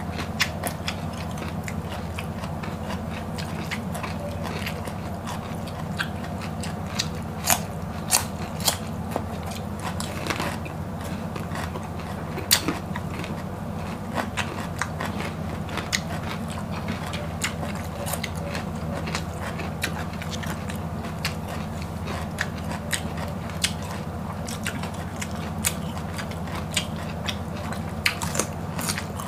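Close-up crunchy biting and chewing of raw green vegetables: scattered sharp crunches over soft chewing, with a steady low hum underneath.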